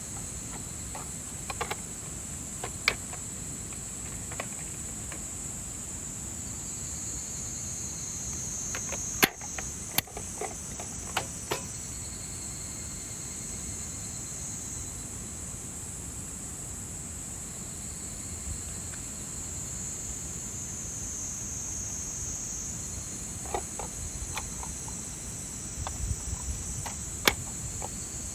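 Steady high-pitched chirring of summer insects, with scattered sharp clicks and knocks, the loudest about nine, ten and twenty-seven seconds in.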